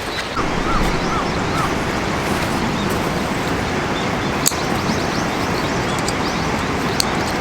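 Steady rushing outdoor noise with a small bird chirping, a run of four or five short rising-and-falling notes about a second in and fainter high chirps later, plus a few sharp clicks.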